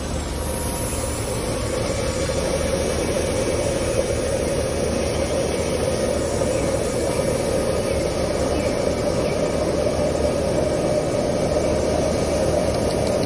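Battery-powered electric motor running steadily, a continuous whir whose pitch creeps slightly upward.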